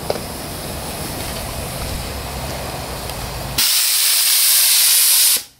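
Steady rushing noise, then about three and a half seconds in the boiler's pop-off (safety) valve lifts with a loud, high steam hiss for nearly two seconds and snaps shut. The valve is releasing at its set pressure of about 100 psi.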